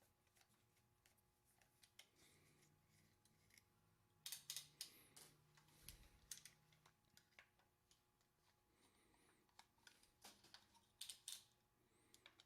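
Near silence broken by faint clicks and taps of a screwdriver working the cap screws of a Columbia automatic drywall taper, in clusters about four, six and eleven seconds in.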